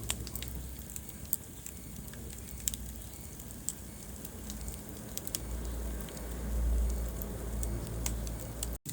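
Wood fire burning in a fireplace: a low rumble of flames with irregular sharp crackles and pops. The sound cuts out completely for a split second near the end.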